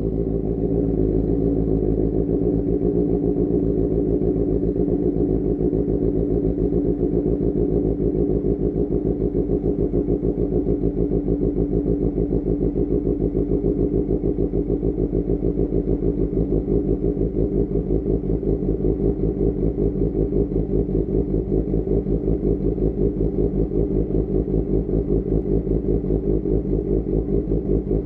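Motorcycle engine idling steadily through an AR GP1R aftermarket exhaust, with an even pulsing beat and no revving.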